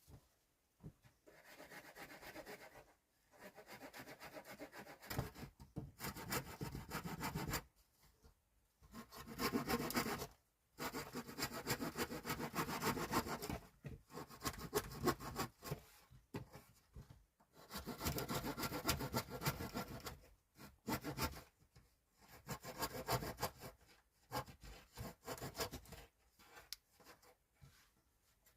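A hand tool working wood with scraping strokes, in runs of a few seconds broken by short pauses.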